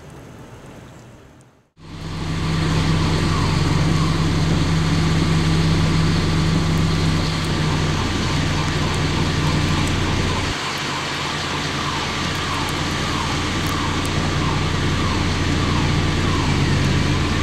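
A vehicle engine running steadily close by, with a faint falling warning tone repeating about once a second over it. The engine sound drops a little about halfway through.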